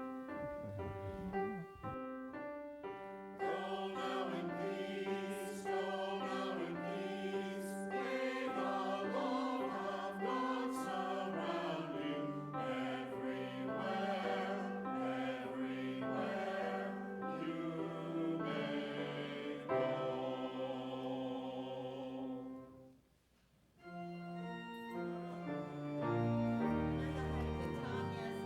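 Choir singing a closing sung response with keyboard accompaniment, in sustained chords; the music stops briefly about 23 seconds in, then starts again.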